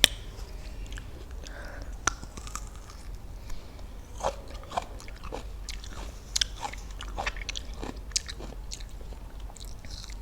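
Close-miked biting and chewing of crisp raw fruit: sharp crunches every second or two between wetter chewing, the loudest bite right at the start.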